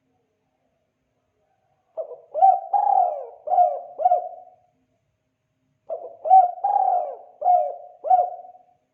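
Spotted dove (tekukur) cooing: two phrases of about five notes each, the first starting about two seconds in and the second about four seconds later.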